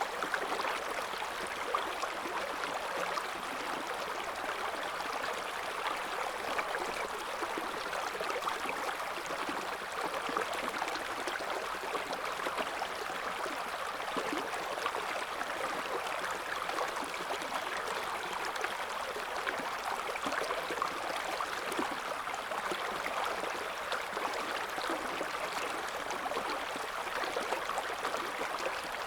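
River current flowing and babbling steadily: an even rush of water, flecked with many small gurgles and splashes, with no pauses or changes.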